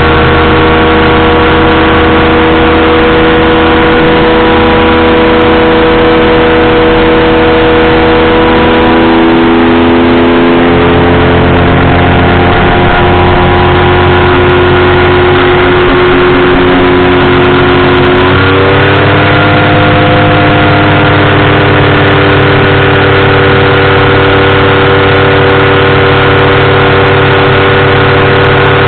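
Powered parachute's engine and propeller running loud and steady in flight; the engine note sags slightly past the middle, then steps up about two-thirds of the way in and holds at the higher pitch.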